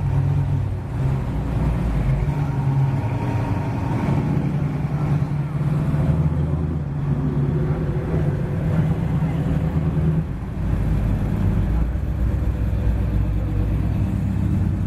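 Engines of American cars, a first-generation Chevrolet Camaro SS's V8 among them, running at low speed as they roll past in a slow line. A steady engine tone gives way about ten seconds in to a deeper, rougher engine sound as the next cars come by.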